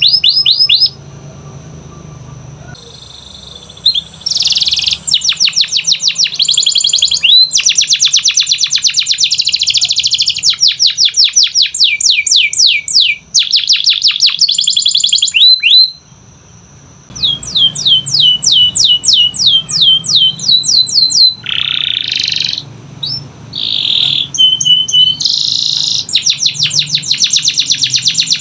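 Domestic canary singing: long, rapid trills of repeated falling notes, with a couple of short pauses and a few buzzy phrases in between.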